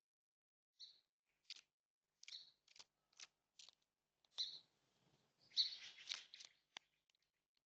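Faint, scattered short bird chirps and sharp clicks, about a dozen spaced irregularly, with a denser scratchy flurry a little past the middle.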